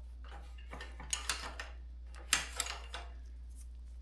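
Metal clinks and scrapes of a bicycle quill stem and its wedge being worked down into the fork's steerer tube, several short knocks with the sharpest about two seconds in.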